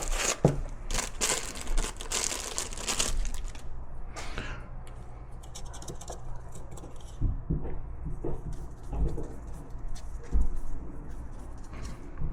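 Tearing and crinkling for about the first three seconds, then scattered small clicks and knocks of parts being handled.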